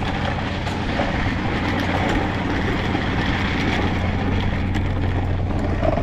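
A vehicle's engine idling with a steady low hum, under a continuous rushing noise.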